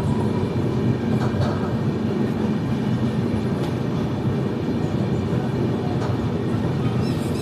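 Banaras–Hubballi Express train running on the rails: a steady, even rumble with a few faint clicks.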